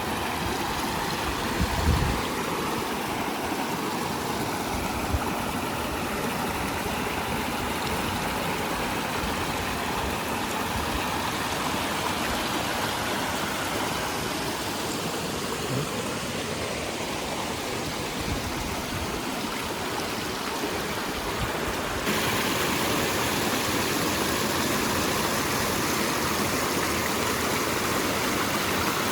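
Steady rush of fast-flowing mountain water, a stream or waterfall, stepping up a little louder about two-thirds of the way through, with a brief low bump about two seconds in.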